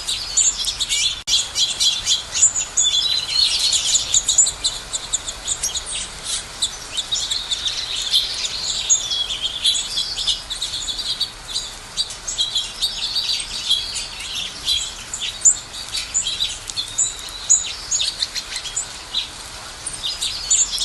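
Several songbirds chirping and singing together in a busy chorus of rapid high chirps and short trills, thickest in the first half.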